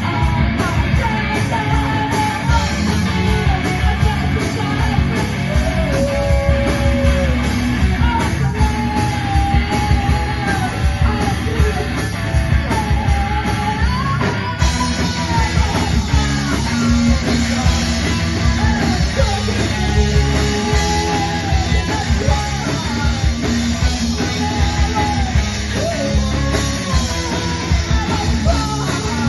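A rock band playing live, with loud electric guitar, bass and drums under a sung vocal line.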